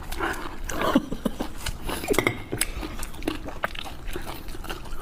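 People chewing and biting raw hairtail sashimi, with scattered short clicks and clinks of tableware.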